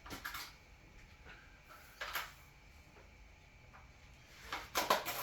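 A few light knocks and clicks of objects being handled, one about two seconds in and a quick cluster near the end, over faint room tone.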